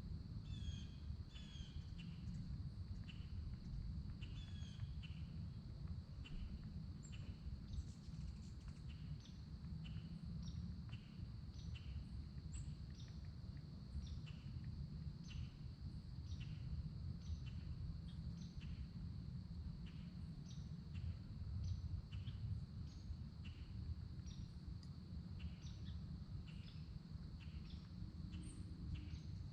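Outdoor ambience: a steady low rumble and a steady high hum, with short bird chirps in the first few seconds and a run of small, sharp high ticks about every half second throughout.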